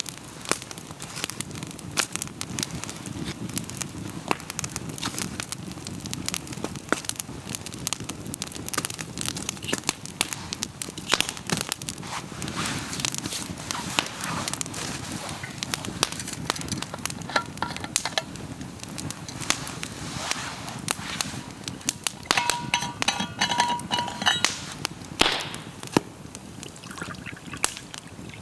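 Wood campfire crackling, with many sharp irregular pops and snaps over a low steady rush of flame. A brief ringing tone sounds about three-quarters of the way through.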